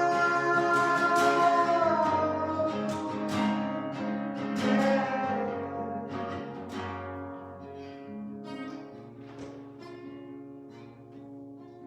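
Instrumental music: plucked guitar notes and chords ringing out, gradually getting quieter.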